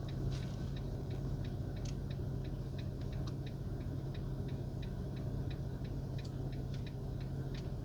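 A car's turn-signal relay ticking steadily, about four ticks a second, over the steady low drone of the engine heard inside the cabin.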